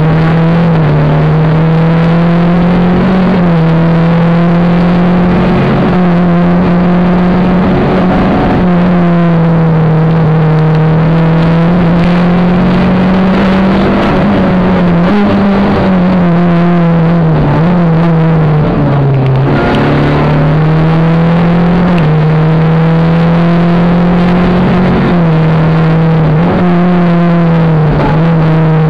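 Rally car engine heard from inside the cabin, run hard at high revs. Its pitch climbs and drops back every few seconds as gears change, and about two-thirds through the revs fall lower for a moment before climbing again.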